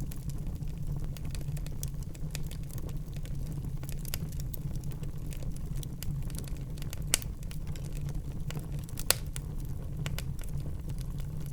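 Wood fire burning in a fireplace: a steady low rumble of the flames with frequent small crackles and two louder pops, about seven and nine seconds in.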